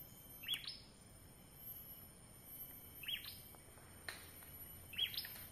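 Three faint, short bird chirps a couple of seconds apart, each a quick sweeping note, over a thin steady high-pitched hum.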